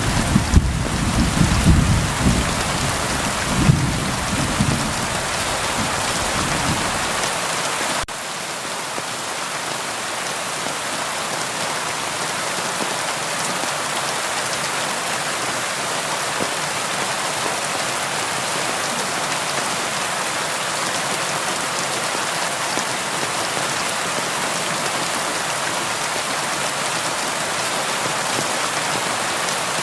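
Steady rain on a window, with a low rumble of thunder through the first several seconds that dies away; after that the rain goes on as an even hiss.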